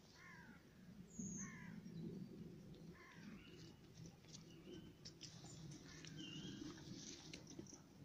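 Faint bird calls in the dawn quiet: three short harsh calls about a second and a half apart in the first three seconds, then scattered higher, thinner chirps.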